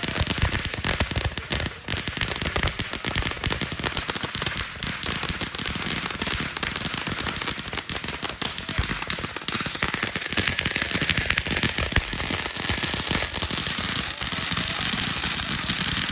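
Fireworks going off in a rapid, unbroken stream of crackles and pops that holds at a steady level throughout.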